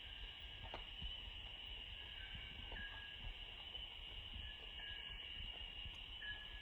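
Faint, steady high-pitched insect chorus, with a few short chirps over it.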